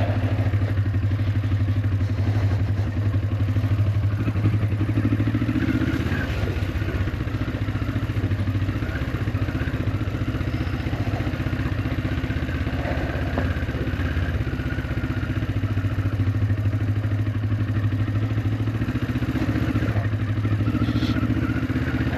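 Honda CL450 parallel-twin engine running steadily at low revs on a rough off-road track, with some clatter over the top.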